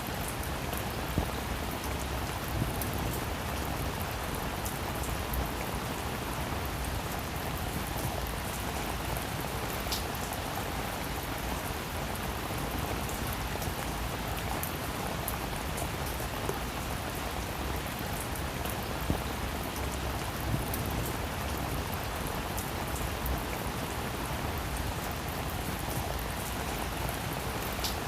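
Steady rain falling on a roof, an even hiss with scattered individual drops ticking louder now and then.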